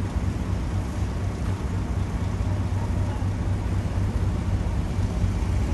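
Diesel locomotive engine running steadily at idle, a low even hum.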